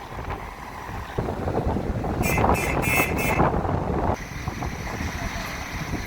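Wind gusting on the microphone over the low rumble of a bus engine. The gust swells about a second in, with a brief high hiss in the middle, and drops off suddenly near the end.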